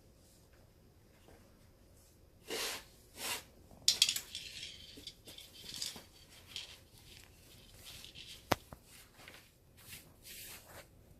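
Hand-work noises from repairing a baseball glove: two short swishes, then a stretch of scraping and rustling, a single sharp click, and a few more rustles.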